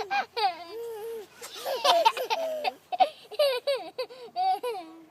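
A toddler's high-pitched squeals, babbling and giggles: a quick run of short calls that bend up and down in pitch.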